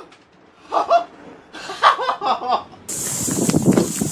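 A person laughing in short bursts. About three seconds in, a steady hiss sets in.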